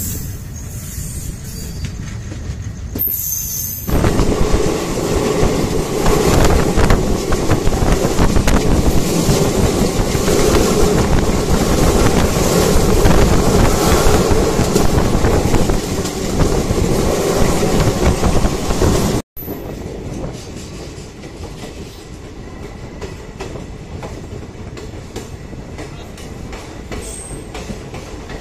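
Indian Railways ICF passenger coach running on the track, its wheels and body rattling and rumbling. The sound grows louder about four seconds in. About two-thirds of the way through it cuts off abruptly and picks up again as a quieter, steadier run.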